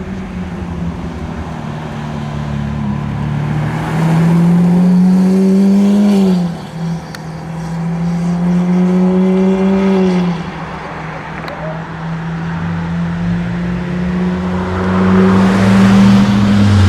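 A car engine pulling under load, its pitch climbing slowly and then dropping sharply twice, about six seconds and ten seconds in, as it shifts up through the gears. It is loudest during the first climb and again near the end.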